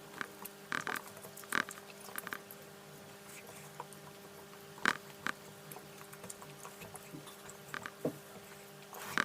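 A person eating fish curry close to the microphone: chewing with wet lip smacks and mouth clicks at irregular moments, over a faint steady hum.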